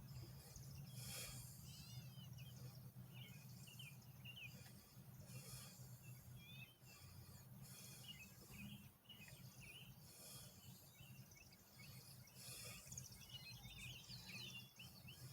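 Small birds chirping faintly and repeatedly, in many short twittering notes, over a low steady hum.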